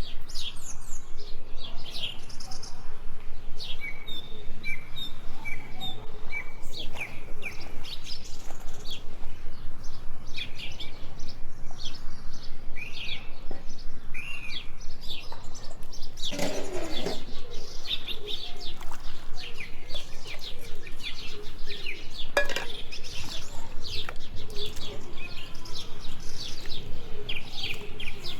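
Small birds chirping and calling, many short chirps overlapping throughout. A little past halfway there is a louder, noisier sound lasting about a second.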